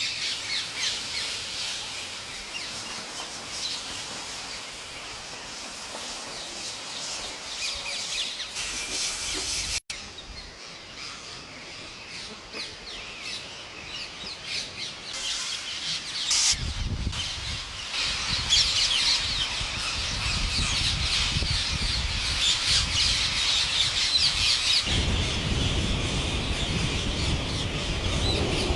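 A large flock of birds chirping and squawking all at once in a dense, continuous chorus. About halfway through, a low rumble joins in beneath the calls and grows louder near the end.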